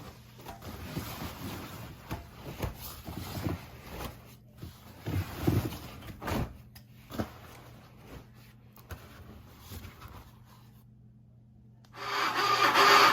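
Maytag MVWP575GW top-load washing machine running with a steady low hum and irregular knocks and thumps, noises the new owners take for abnormal. It fades out about 11 s in, and guitar music begins a second later.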